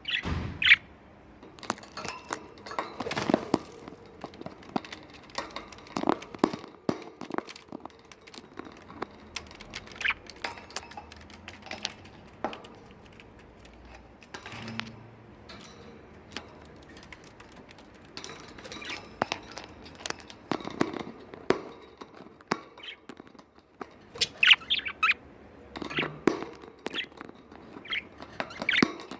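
Pet budgerigars chirping in short calls, mixed with frequent sharp clicks and taps. The chirps come in clusters near the start and again near the end.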